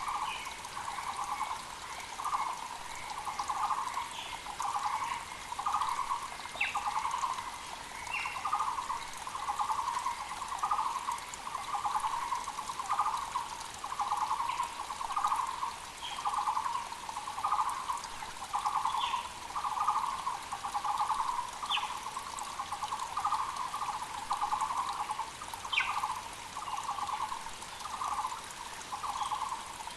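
Muller's barbet calling, a low hollow note repeated steadily about once a second, with other small birds giving short high chirps and a creek running faintly underneath.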